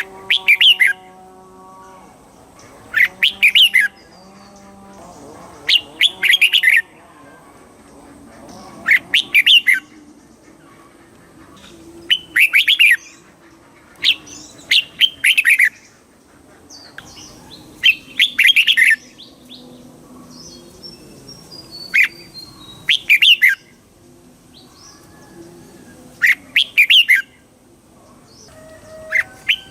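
Red-whiskered bulbul singing: loud, short phrases of about a second, repeated roughly every three seconds, with fainter, lower bird calls between them.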